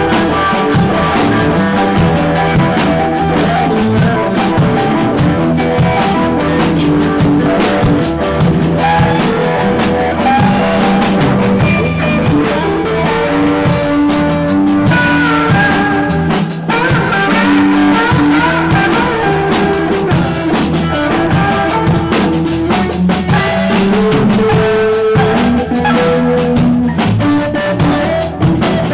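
Blues band playing an instrumental passage without vocals: guitar lead lines moving over a steady drum-kit beat.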